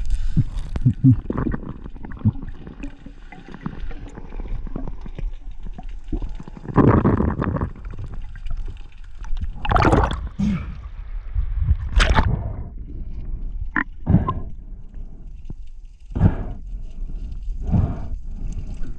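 Water gurgling and sloshing around the camera in irregular bursts, with several louder surges spaced a second or more apart.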